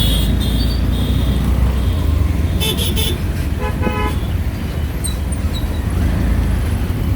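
Street traffic heard from a moving auto-rickshaw: a steady engine-and-road rumble with short horn toots from vehicles around it, a few quick ones at the start and the loudest about three and four seconds in.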